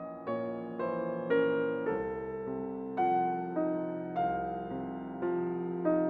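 Background music: soft electric piano playing a slow melody, each note struck and fading, a new one about every half second.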